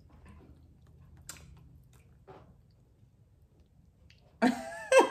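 Faint eating sounds from someone pulling apart and chewing barbecue ribs: a few soft clicks and mouth noises. Loud laughter breaks out near the end.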